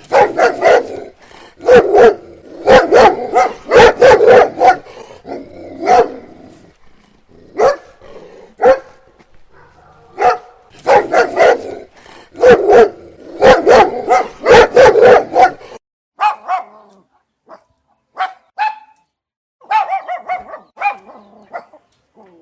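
A pack of dogs barking, with loud clusters of overlapping barks that thin out in the last third to scattered, higher-pitched barks and yips.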